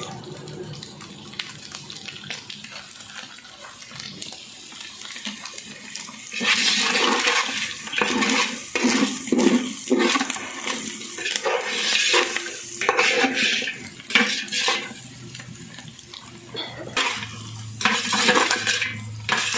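Spiced chicken being stirred and tossed in a large pan with a ladle, metal scraping the pan over sizzling masala in repeated irregular bursts that start about six seconds in. A low steady hum joins near the end.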